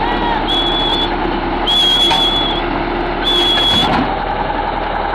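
A heavy vehicle's engine running steadily, with three high, steady whistling tones over it, each lasting well under a second.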